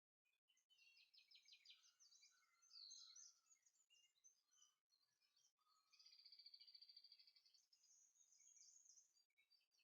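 Faint birdsong: quick high chirps and fast trills, with a longer run of rapidly repeated notes near the end.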